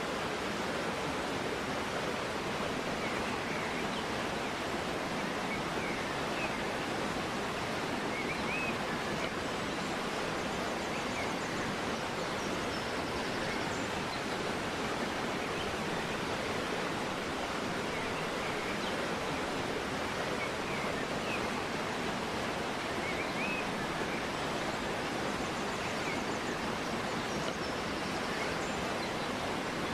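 River water flowing steadily, a constant rushing wash, with faint bird chirps here and there throughout.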